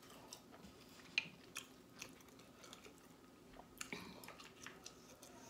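Faint eating sounds: a person chewing goat curry and roti, with scattered sharp little mouth clicks.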